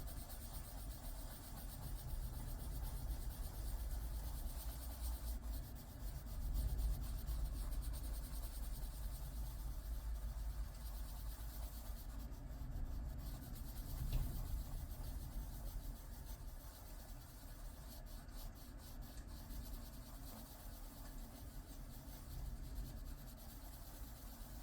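Coloured pencil scratching on paper in steady back-and-forth shading strokes, filling in a shape.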